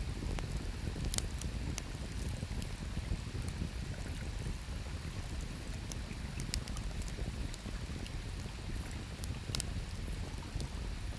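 Wood campfire crackling, with scattered sharp pops, over the steady low rush of a river.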